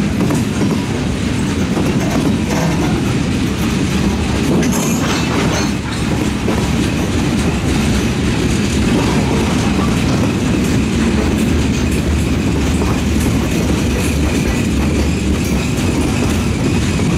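Freight cars (covered hoppers and gondolas) of a passing freight train rolling by: a steady, loud rumble and clatter of steel wheels on the rails.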